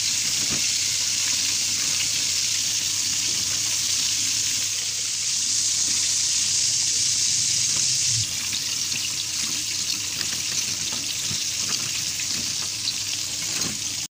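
Breaded chicken deep-frying in hot oil, a steady sizzle, with faint clicks of metal tongs against a stainless steel draining basket. The sizzle drops a little about eight seconds in and cuts off abruptly near the end.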